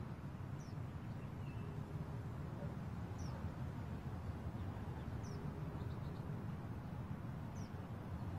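Quiet outdoor ambience, a steady low hum, with a small bird giving a short, high chirp four times, about every two to two and a half seconds.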